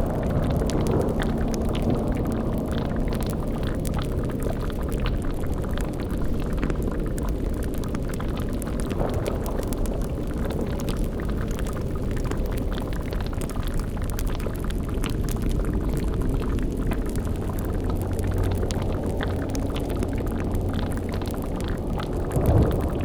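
Layered spooky sound-design ambience: a steady low rumbling drone with continuous bubbling and crackling over it, as of a cauldron boiling over a fire. A short louder swell comes near the end.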